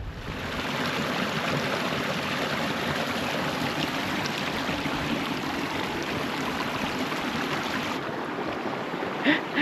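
A mountain stream running over rocks: a steady rush of water.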